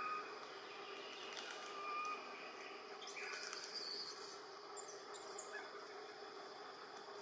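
Bird calls: a short whistled note about two seconds in, then high chirps from about three to four seconds and again around five seconds, over a steady forest background hum.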